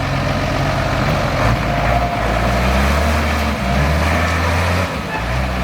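Off-road 4x4 vehicle's engine revving under hard throttle, its note rising and dropping several times as the driver works it.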